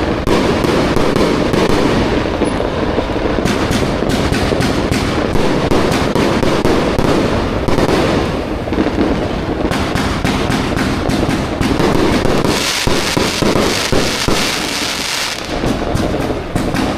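Fireworks going off in a dense, continuous barrage of pops and crackles, with a stretch of sharper, brighter crackling about three quarters of the way through.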